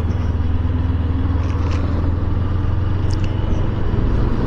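Motorcycle engine running at a steady pitch while riding, a low hum under a haze of wind and road noise.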